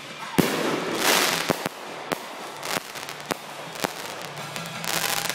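Fireworks going off: a sharp bang, then a burst of crackling hiss, followed by several single sharp pops spread over the next few seconds and another hissing crackle near the end.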